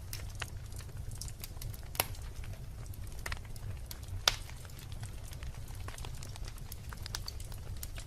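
Wood fire burning in a fireplace: a low steady rumble of the flames with irregular sharp crackles and pops from the logs, two louder pops about two and four seconds in.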